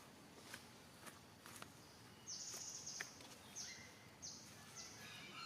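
High-pitched animal calls: four short, buzzy squeaks from about two seconds in, the first the longest, with a few faint clicks before them over quiet background noise.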